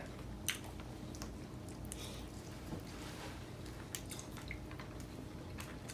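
Quiet eating sounds: scattered small clicks and wet mouth noises of chewing, over a low steady room hum.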